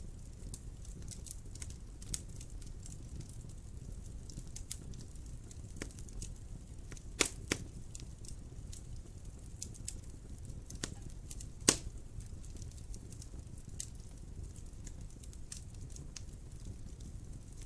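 Wood fire crackling in a fireplace: a steady low rumble of burning with scattered small ticks and snaps, and a few louder pops about seven and eleven and a half seconds in.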